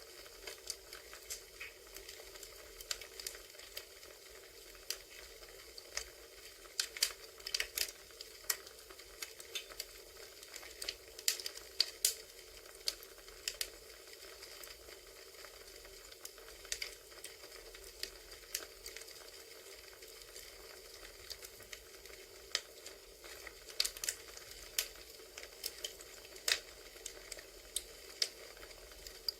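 Crackling wood fire: irregular snaps and pops over a steady low hiss, played as a recorded campfire ambience track.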